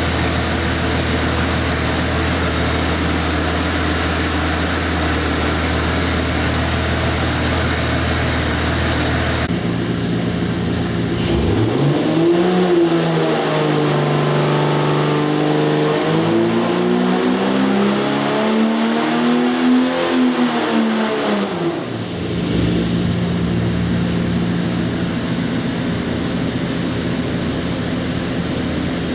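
A 4.6-litre Jeep stroker inline-six engine idles steadily, then revs hard through a rising pull on an engine dyno. About 11 s in the pitch climbs, dips, and climbs again to a peak. It drops back to idle about 22 s in.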